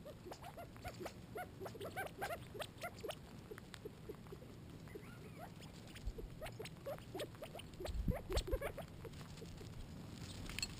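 Quail feeding: many short, soft chirps and pecking clicks in quick succession, with a few low thumps about eight seconds in.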